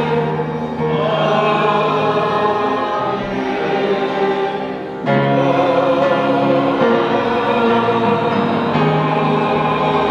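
Choir singing a slow hymn with accompaniment, in long held chords. The sound thins out briefly, then comes back in fuller about halfway through.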